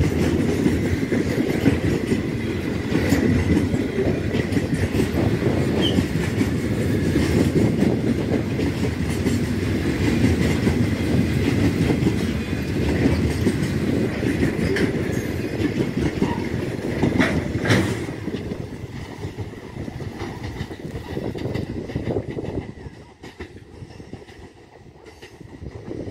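Container wagons of a freight train rolling past close by, their steel wheels rumbling and clicking over the rail joints. A little before two-thirds of the way through the last wagons go by with a few sharp clicks, and the rumble then fades away as the train draws off.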